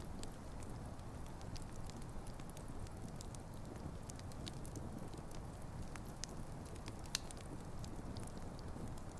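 Wood campfire burning: a steady low rumble of flames with irregular sharp crackles and pops from the burning logs, one louder pop about seven seconds in.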